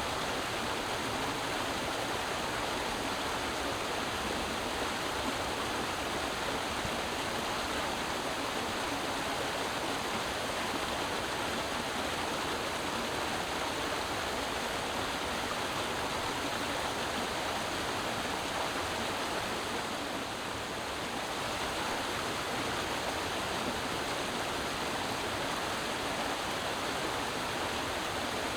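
Creek water flowing and rushing over rocks, a steady, even sound with only a slight dip about two-thirds of the way in.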